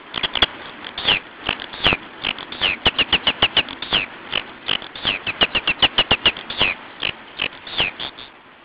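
Small bird calling in a rapid series of short, sharp chirps, many of them dropping in pitch, several a second, thinning out near the end.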